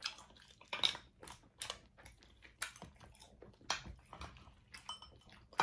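Close-miked eating sounds: chewing and wet smacking of seafood in butter sauce, with irregular short clicks about every half second.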